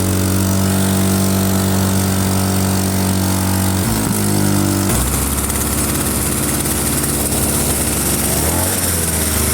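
49cc two-stroke engine running steadily, changing speed about four seconds in and then settling again. The owner says it seems to keep running with the spark plug out.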